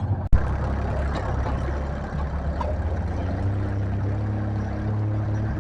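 A brief dropout and sharp click, then a pulling tractor's engine running steadily, its pitch rising a little about three and a half seconds in.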